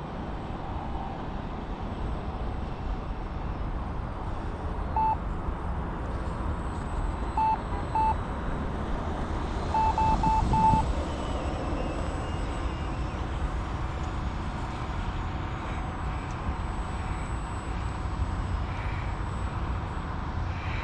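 Steady low wind rumble on the microphone with short electronic beeps at one pitch: one about 5 seconds in, two near 7.5 to 8 seconds, and a quick run of four or five around 10 seconds.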